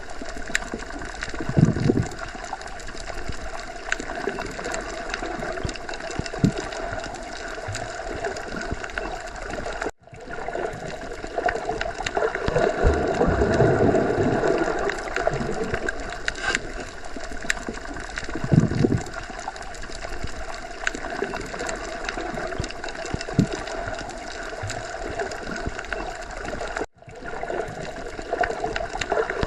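Underwater sea ambience: a continuous muffled wash of water with gurgling and low surging swells. It cuts out abruptly twice, about ten seconds in and near the end, each time swelling back within a second or two.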